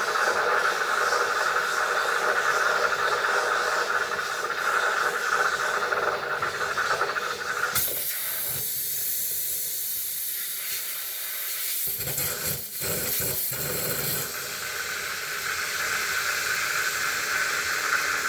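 Steady hissing blow of a hot-air or steam tool defrosting an iced-up refrigerator freezer evaporator. Its tone changes about eight seconds in and shifts back around fourteen seconds.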